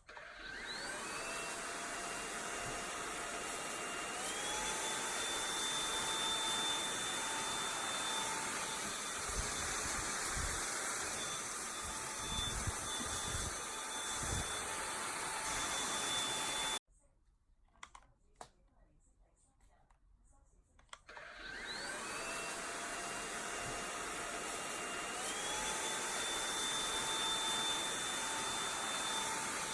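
Samsung POWERbot R7040 robot vacuum's suction motor spinning up, its whine stepping up in pitch twice before settling into a steady run. It cuts off suddenly about 17 seconds in; after a few quiet seconds with faint clicks it starts and spins up the same way again.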